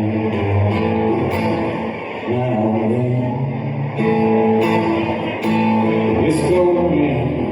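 Live country band playing an instrumental break between sung verses, with guitar carrying the melody in held and bending notes.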